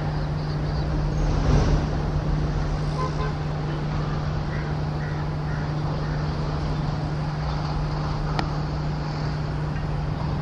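Electric locomotive with passenger coaches approaching: a steady low hum over a constant rumble, with one sharp click about eight seconds in.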